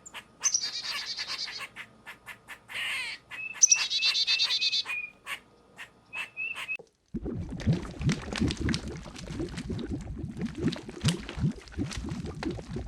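A small songbird singing rapid high trills and short repeated chirps, with sharp clicks between them. About seven seconds in, the audio cuts abruptly to a dense, crackling noise made of many short low strokes.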